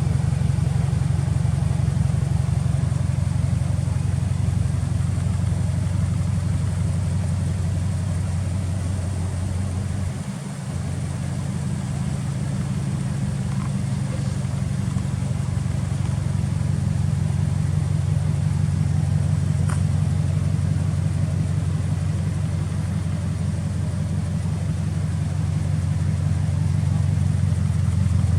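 Subaru Impreza WRX STI's turbocharged flat-four idling steadily through an aftermarket titanium muffler, a low even rumble, dipping briefly about ten seconds in.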